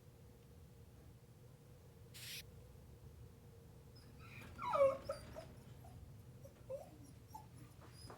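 A beagle whimpering: one loud whine about halfway through that bends downward in pitch, then a few short, softer whimpers. A brief hiss comes a couple of seconds earlier, over a faint steady hum.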